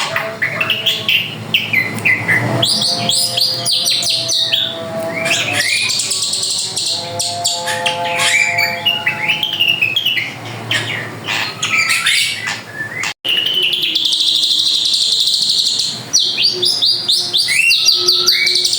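Drongo singing a fast, varied song of chirps, whistles and slurred notes, almost without pause. The sound cuts out for an instant about thirteen seconds in, then the song carries on.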